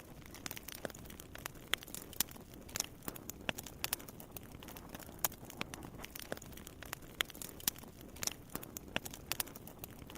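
Wood fire crackling in a fireplace, with irregular sharp pops several times a second over a soft steady rush of burning.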